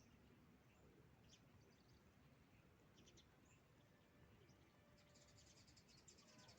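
Near silence with faint, distant bird chirps now and then: a few short high peeps over a low outdoor hush.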